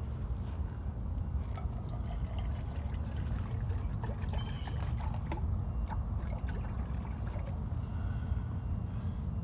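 Water being poured into a pot for coffee, trickling and splashing, over a steady low rumble, with a brief high chirp about halfway through.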